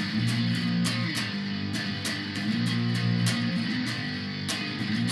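Single-coil Stratocaster electric guitar played through a Korg A5 multi-effects processor with gain added: repeated strummed chords with sharp attacks, the chord changing every second or two.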